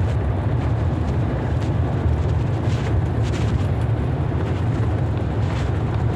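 Thunder rolling as a steady low rumble.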